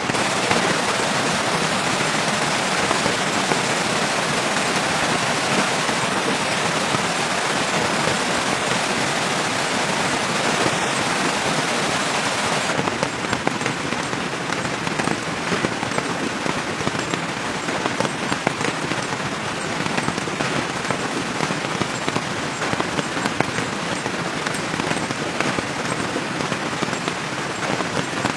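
Steady rain falling, an even hiss dotted with fine drop ticks; its tone changes slightly about 13 seconds in.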